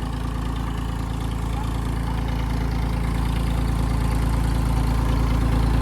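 Tractor diesel engine running steadily with a deep low hum, growing slowly louder.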